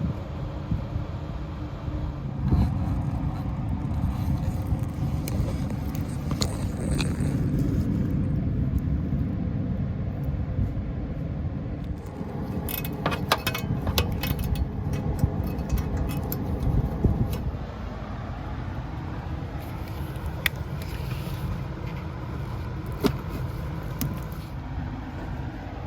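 A steady low rumble with scattered metallic clinks and scrapes, the clinks bunching together about halfway through.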